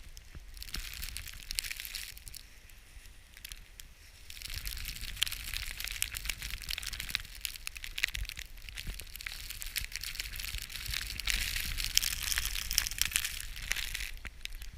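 Snow crunching and crackling underfoot while walking through deep snow. The crunching is sparse for the first few seconds, then dense and continuous.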